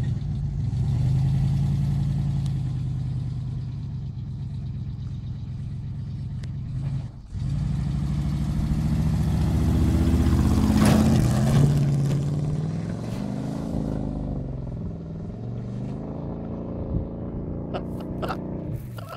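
1982 Chevrolet K10 pickup's engine revving hard as the truck ploughs through deep mud, the revs rising and falling over and over. The engine briefly drops off about seven seconds in, climbs to its loudest around ten to twelve seconds, then eases down as the truck bogs down stuck.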